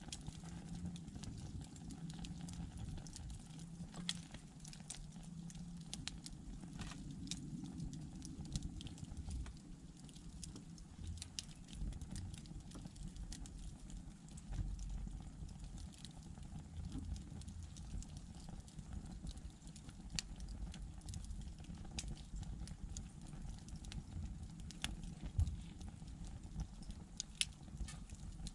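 Wood candle of upright bundled thin logs burning, with scattered sharp crackles and pops over a low steady rumble.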